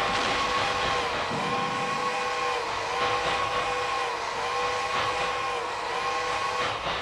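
Train horn holding a steady chord over the noise of a moving train.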